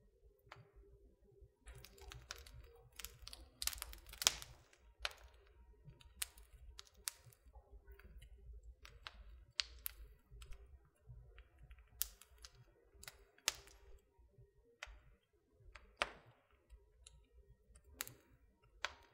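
Wood fire crackling: irregular sharp pops and snaps over a low rumble. They come thickest a few seconds in, with the loudest pop about four seconds in.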